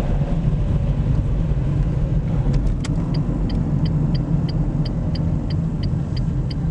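Inside a car cabin, a steady rumble of engine and tyres on the road. From about three seconds in, the turn-signal indicator ticks evenly, about three times a second.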